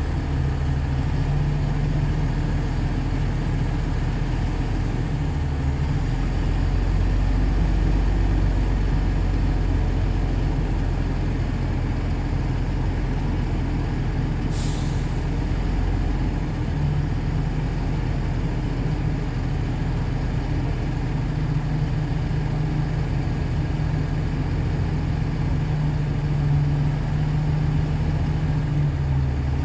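Shantui DH17C2 bulldozer's diesel engine running steadily under load while pushing soil, its low note shifting a few times as the load changes. A brief hiss about halfway through.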